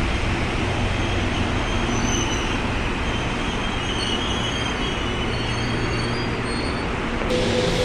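Electric commuter train running along a station platform: a steady rumble of wheels on rails with faint high-pitched wheel squeal partway through.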